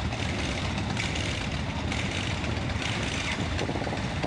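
Engines of several large cruiser motorcycles running together at idle, a steady low rumble.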